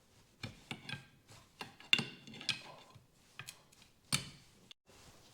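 Light metallic clinks and taps of hand tools and suspension parts being handled, about a dozen short separate knocks scattered over a few seconds.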